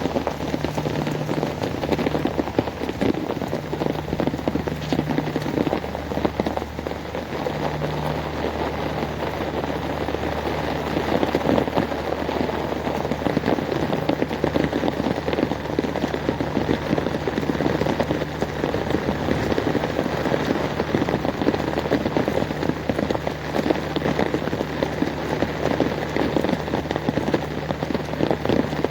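Heavy rain falling and pattering on hard surfaces: a dense, steady hiss of countless drops, with a steady low hum underneath.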